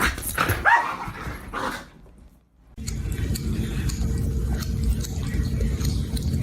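A pet's short vocal calls with a gliding pitch. After a sudden break, a steady low rumbling noise with a faint hum sets in.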